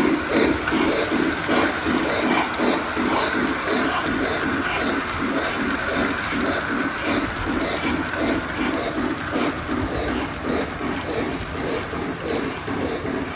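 Toy Christmas trains running on their tracks: a steady rhythmic clatter of wheels and running gear, about three beats a second, over a constant motor whine.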